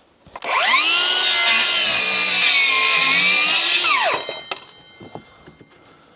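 Electric circular saw run for about three and a half seconds: it spins up, cuts shallowly into wooden battens with its pitch dipping under load, then winds down.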